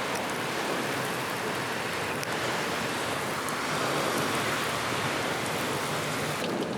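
Steady heavy rain, a dense hiss with scattered drop ticks, as a tornado passes close by.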